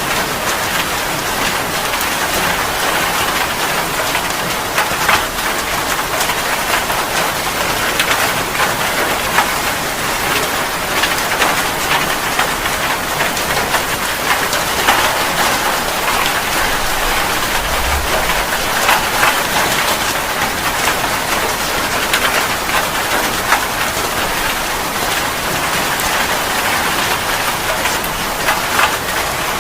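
Steady rain falling, with many separate drops striking a hard surface.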